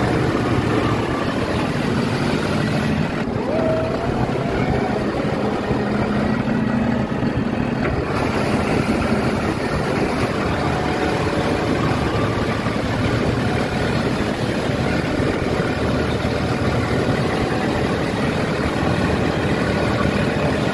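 Diesel engine of a John Deere 63 hp CRDI tractor running steadily at a constant pace.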